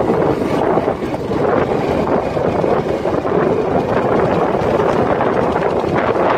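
Wind buffeting the microphone, a loud steady rushing with no pauses.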